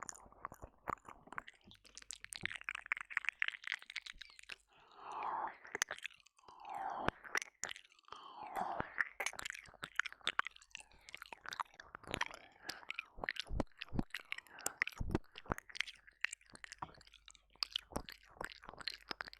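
Close-up wet mouth sounds of licking and mouthing at a binaural dummy-head microphone's ear: dense irregular lip smacks and tongue clicks, with a few longer slurping swells in the middle.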